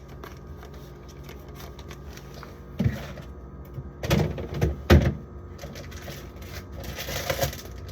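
Food containers being handled and set down inside a refrigerator: a few knocks and thuds, the loudest about five seconds in, with softer rustling near the end.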